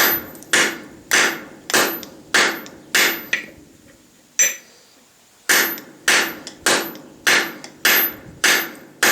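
A light tack hammer striking hot steel on a small stake anvil in a steady forging rhythm, a little under two blows a second, each with a short high ring. Six blows, a pause of about two seconds, then six more.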